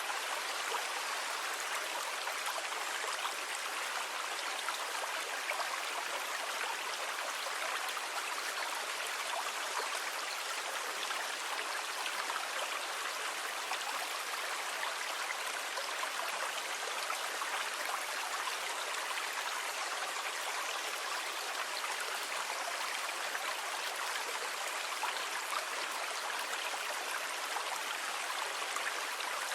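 Steady, even rushing of water with no rise and fall of breaking waves.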